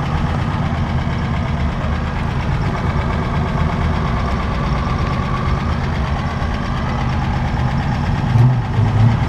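Engine of a vintage open touring car idling with a steady low throb, swelling a little louder near the end.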